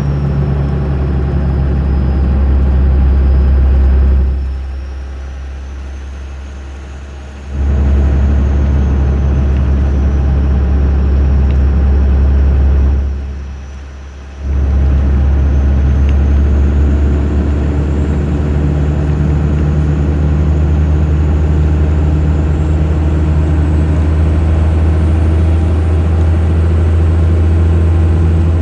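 Cummins 12-valve 5.9 L inline-six diesel with an HX35 turbo and 4-inch straight pipe, running under load while driving, with a high turbo whistle over the deep engine drone. The engine sound drops off twice, about four seconds in for around three seconds and again briefly near thirteen seconds, then comes back loud.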